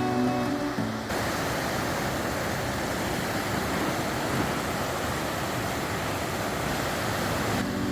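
Acoustic guitar music cuts off about a second in and gives way to the steady rush of a mountain river. The music comes back at the very end.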